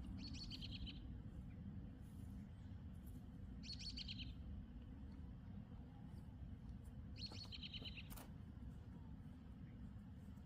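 A songbird singing the same short trilled phrase three times, about every three and a half seconds, over a faint low rumble.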